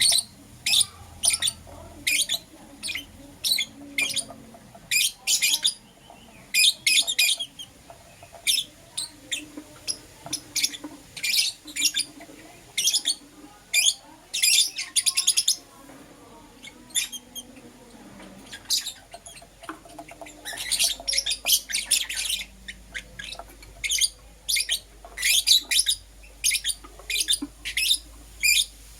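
Lovebirds chirping: short, sharp, high-pitched calls in irregular clusters, coming thicker and faster in the last third.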